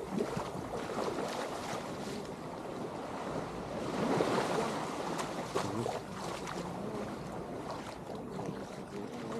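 Ocean waves washing on the shore, with wind buffeting the microphone.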